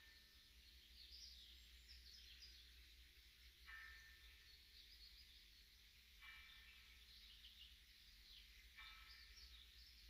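Faint birdsong: high, scattered twittering throughout, with a short, lower call of several even tones repeating about every two and a half seconds.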